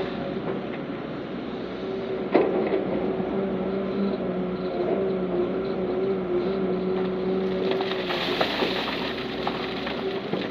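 Heavy diesel earthmoving machinery running steadily, with a sharp knock about two seconds in and a hissing, rushing noise joining about eight seconds in.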